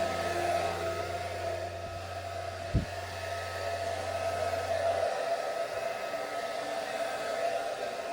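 Hair dryer running steadily with a constant motor whine, blowing wet acrylic paint across a canvas in a Dutch pour. A brief knock about three seconds in.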